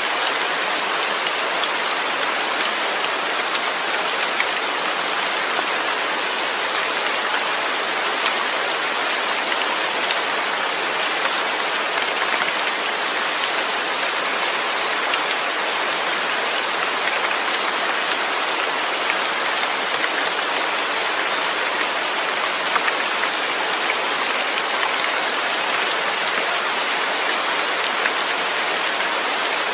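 Steady rain falling, an even hiss of many drops with scattered louder drop ticks.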